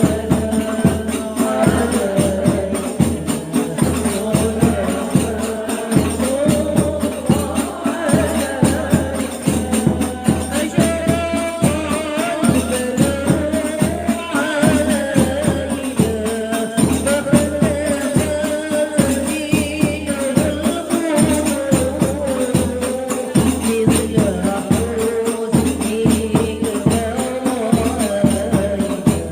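Women's group singing sholawat in unison over hadroh frame drums (rebana) beating a fast, steady rhythm with jingling tambourine-like strokes.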